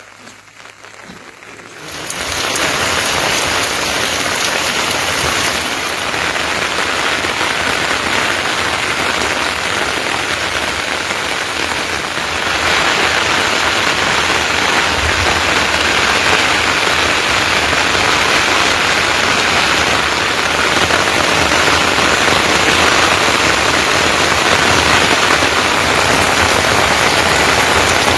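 Steady heavy rain pattering down. It comes in suddenly about two seconds in and grows louder about halfway through.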